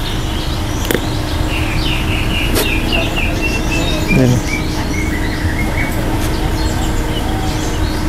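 A bird calls a run of short chirps that step down in pitch, starting about two and a half seconds in and lasting about four seconds, over steady outdoor background noise. A few light knocks fall in between.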